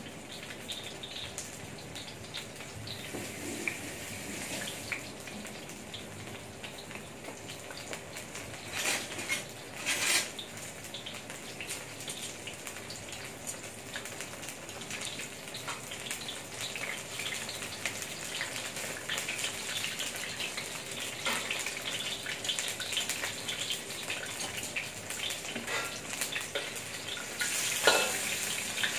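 Battered enoki mushrooms frying in shallow oil in a stainless steel wok: a steady crackling sizzle, with metal tongs and a spatula clinking and scraping against the wok now and then, loudest about nine to ten seconds in and near the end.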